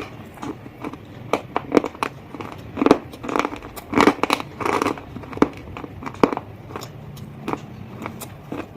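Close-up bites and crunching chews of something crunchy, a run of sharp cracks and crunches that are densest and loudest a few seconds in.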